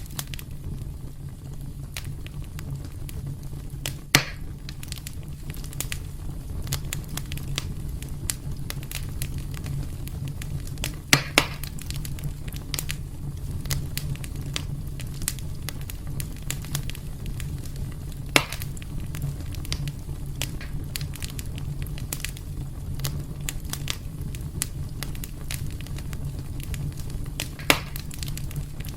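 Wood fire burning in a fireplace: a steady low rumble of flames under constant small crackles, with a handful of louder, sharper pops.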